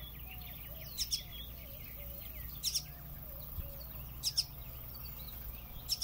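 A fledgling songbird calling: four short, high double chirps, evenly spaced about a second and a half apart, over a steady low background hum.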